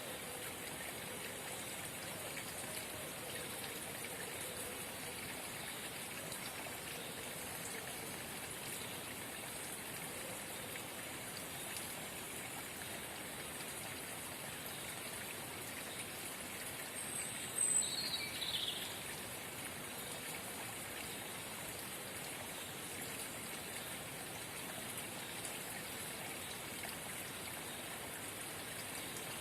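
Forest spring babbling steadily, with one short bird call a little past halfway.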